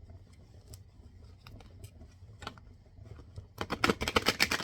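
A deck of oracle cards being handled and shuffled: a few light scattered clicks, then a dense flurry of rapid card snaps for about a second near the end.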